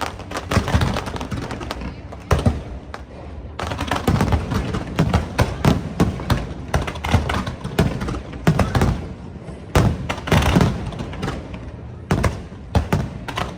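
Fireworks display: many shells exploding in quick succession with crackling, easing off briefly twice before picking up again.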